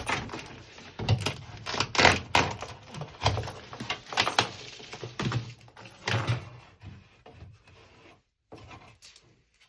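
Footsteps, about one a second, each a short thud, growing fainter toward the end.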